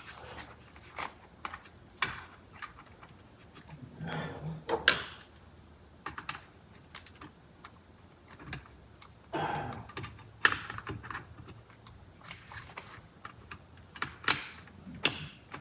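Irregular clicks, taps and rustles of hands working small plastic parts and wiring connectors into place on a steering wheel, with a few sharper snaps.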